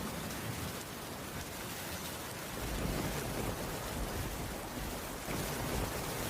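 Heavy rain falling steadily on a wooden cabin roof as an even hiss, with a low rumble of thunder coming in a few seconds in.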